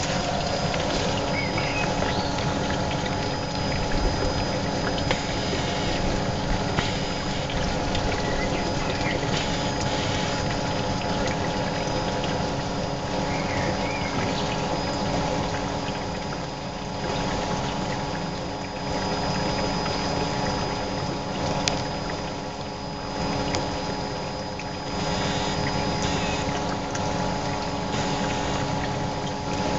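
Electric motor humming steadily with water running, the sound of the pump circulating pool water through the wood-fired heater's coil.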